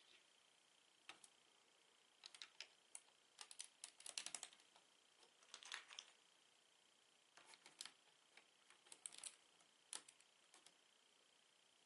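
Plastic Lego bricks being handled, giving small clusters of sharp light clicks and rattles, some runs quick and close together, with short pauses between.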